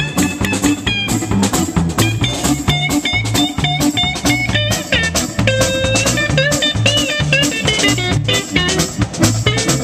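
A live band playing a blues-style instrumental passage: drums keeping a steady beat under a bass line and a lead guitar line with bent notes.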